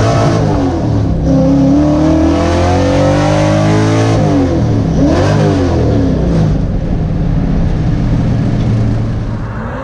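Ford 302 Windsor V8 in a race car running hard under acceleration, its pitch climbing and dropping back several times as it is revved and shifted.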